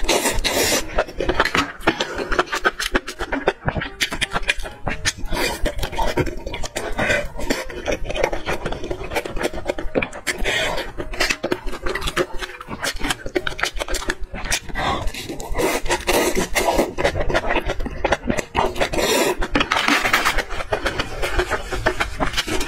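Close-miked eating sounds: wet chewing, lip smacking and slurping of sauce-coated skewered food, a dense run of rapid wet clicks and squelches.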